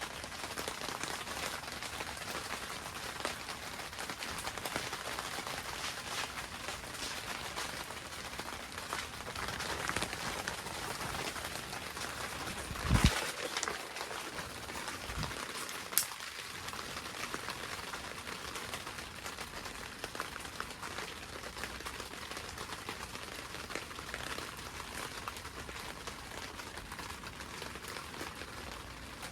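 Rain pattering on a greenhouse roof, heard from inside as a dense, steady crackle of small drops. A louder knock comes about halfway through, and a single sharp tick a few seconds after it.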